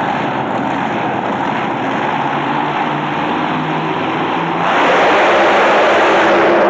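Racing vehicle's engine running over a noisy arena, swelling much louder about two-thirds of the way in.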